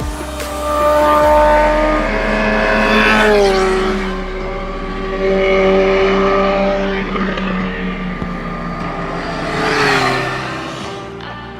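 Motorcycle engine held at high revs, its pitch dropping in steps several times, with a louder rush of noise about ten seconds in.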